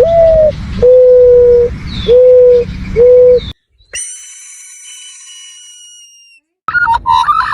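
A run of animal calls. First come four steady, single-pitched hooting coos, each under a second, over a low rumbling background. After a short pause a high ringing tone fades away over about two seconds, and near the end a fast warbling chirping begins.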